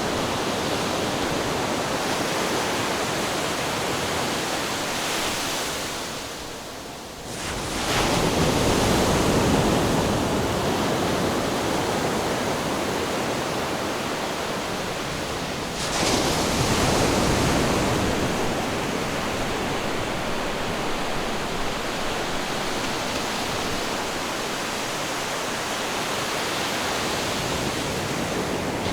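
Ocean surf: a continuous wash of waves, with a brief lull before a wave breaks about a quarter of the way in and another breaks just past halfway.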